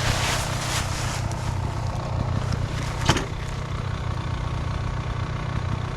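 Dirt bike engine idling steadily as a low rumble, with one sharp knock about three seconds in.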